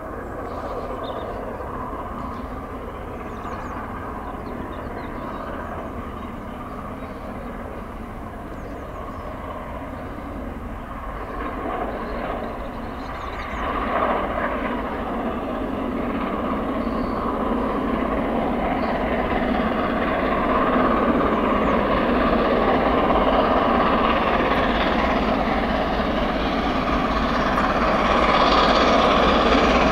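A train running by, a steady rumbling noise that grows gradually louder as it approaches, with a step up in loudness about halfway through.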